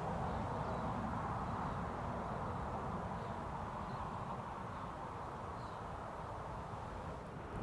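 Steady low outdoor background rumble, with a few faint, short bird chirps high above it.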